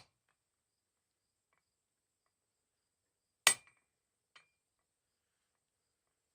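A single hammer blow on steel about halfway through, with a short metallic ring. A faint light tap follows about a second later.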